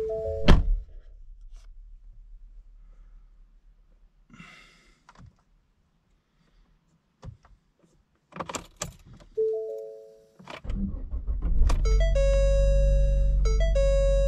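Car interior sounds: a two-tone warning chime and a door thunk, a short jingle of keys, clicks, then the Ford Fusion's 1.5-litre EcoBoost four-cylinder starting about eleven seconds in and settling into a steady idle. Over the idle a warning chime repeats, briefly breaking off about every second and a half.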